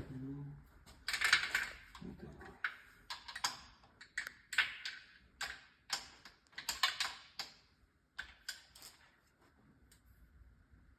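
Workshop handling noise: a run of irregular, sharp clicks and clatters that stops about nine seconds in.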